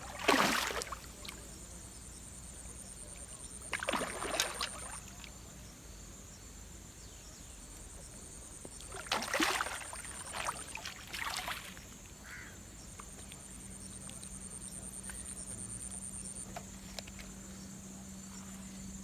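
Water splashing in short bursts: once at the start, again about four seconds in, then three in quick succession around the middle. A high, steady insect trill comes and goes in between.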